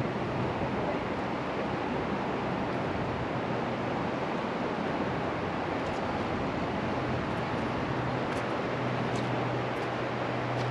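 Steady rushing of river water around a floating raft. A low steady hum comes up in the second half, and a few faint ticks.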